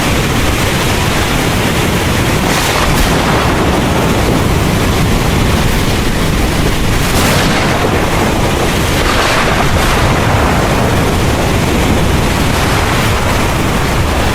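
Heavy rain pouring steadily under a continuous low rumble of thunder, with the rain hiss swelling briefly a few times.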